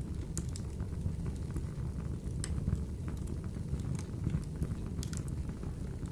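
Wood fire burning in a wood-burning stove: scattered sharp pops and crackles from the burning logs over a steady low rumble of the flames.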